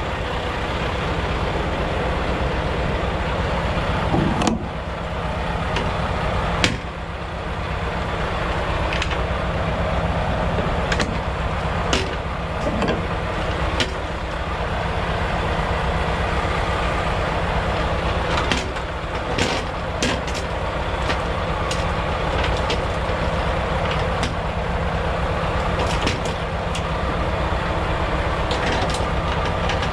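Semi truck's diesel engine running steadily, with scattered knocks and clicks over it.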